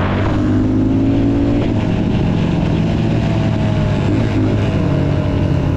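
Motocross dirt-bike engine running under way, its pitch shifting as the revs change, about a second and a half in and again around four seconds.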